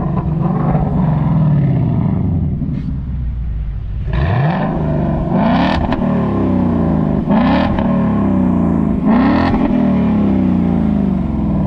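Car engine revved in a series of about five throttle blips, each climbing quickly in pitch and falling back toward idle.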